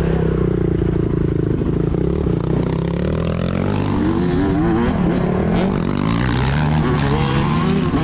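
Motocross bike engines running and revving, their pitch rising and falling as the throttle opens and closes, with more than one engine heard at once.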